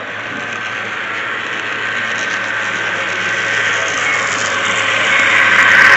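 Model train running on the layout, a steady mechanical running noise with a thin whine. It grows steadily louder toward the end, as if the train is coming closer.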